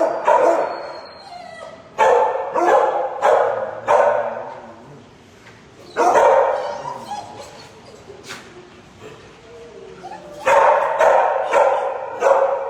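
Shelter dogs barking in volleys: a few barks at the start, a run about two seconds in, another about six seconds in, and a longer run near the end, with quieter stretches between.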